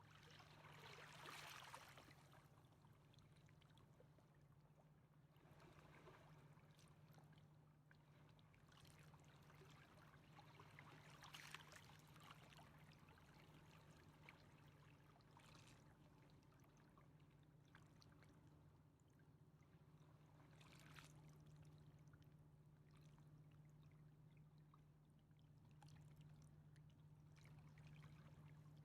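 Near silence: faint river water lapping in soft swells every few seconds, over a steady low hum.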